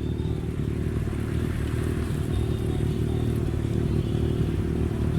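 Car engine running steadily at idle, a low, even exhaust note with no revving.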